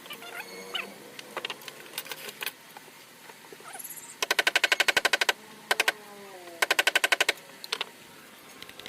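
Carving chisel being driven into wood by a mallet with rapid light taps, in two quick runs of about a second each, with single taps between them.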